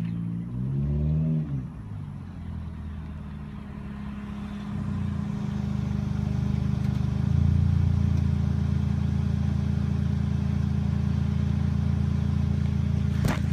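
2014 Toyota Corolla four-cylinder running through an exhaust with the resonator and muffler removed: a quick rev that rises and falls, then a steady low drone that grows louder over a few seconds and holds. A short sharp click sounds near the end.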